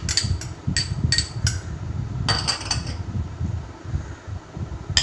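A spoon clinking against a bowl: a run of quick sharp taps in the first second and a half, then another short cluster a little past two seconds, over a low steady rumble.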